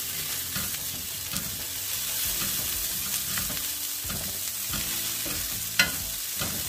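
Diced Spam, onions and carrots sizzling in a Caraway ceramic non-stick sauté pan while being tossed with tongs, the tongs scraping and clicking against the pan. One sharper click comes near the end.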